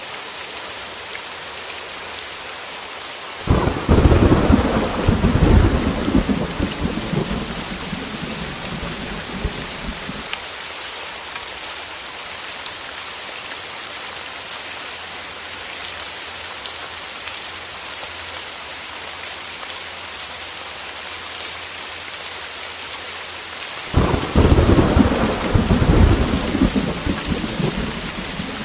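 Heavy rain falling steadily, with two claps of thunder: one starting about three and a half seconds in and rumbling away over several seconds, and another near the end.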